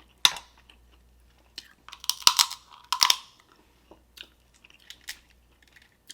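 Person eating Dungeness crab legs: biting, chewing and cracking the shell, with a few sharp cracks and wet smacking, the loudest about two to three seconds in.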